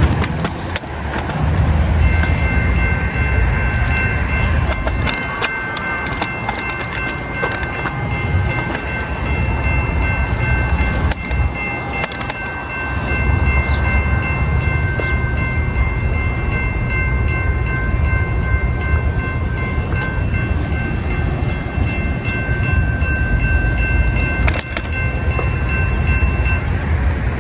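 A train running on the rails with a heavy steady rumble and occasional clacks. A long steady high-pitched ringing tone sounds over it from about two seconds in until just before the end.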